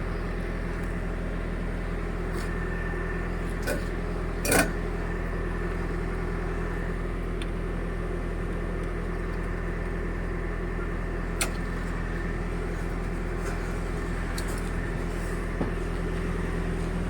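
Steady low hum of an idling engine, with a few short clicks, the clearest about four and a half seconds in.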